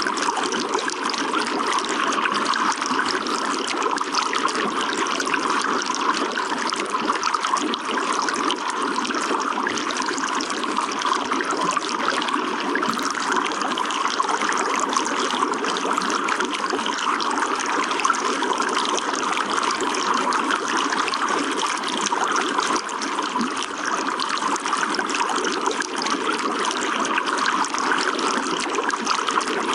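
Running water trickling and splashing in a steady, even flow with no breaks or distinct events.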